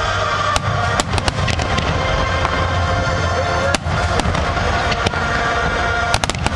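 A fireworks display: scattered sharp bangs and crackles from bursting shells, several in quick succession about a second in and again near the end. Music plays steadily under them.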